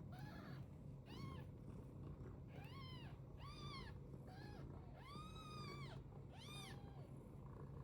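British Longhair cat meowing repeatedly: a series of short meows that rise and fall in pitch, with one longer, drawn-out meow about five seconds in.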